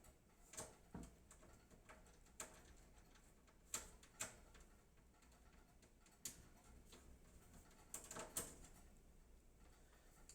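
Faint, scattered small clicks and taps, about eight in all, from handling screws and computer-case parts while a screw is test-fitted to see if it catches.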